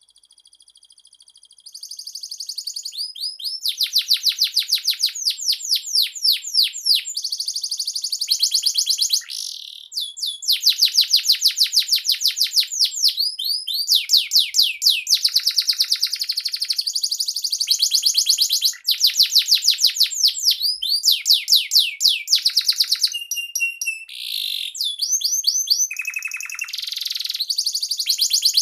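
Domestic canary singing a long ningnong-style song: fast runs of repeated high sweeping notes and rolling trills, changing phrase every few seconds with only brief pauses. It starts faint and turns loud about two seconds in.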